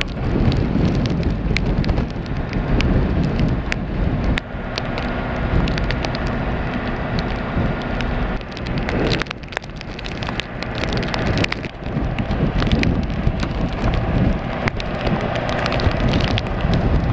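Wind buffeting the microphone, with rain pattering in sharp little ticks.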